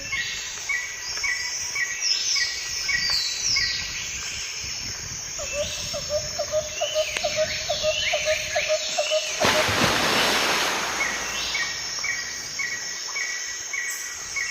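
Several wild birds calling outdoors: one repeats a short chirp about three times a second, others give falling whistles, and one gives a fast run of low notes. Partway through, a rush of noise lasts about a second and a half.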